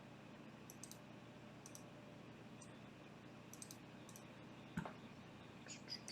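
Faint, scattered clicks of a computer mouse and keyboard, a few at a time, over near-silent room tone, with one soft knock about five seconds in.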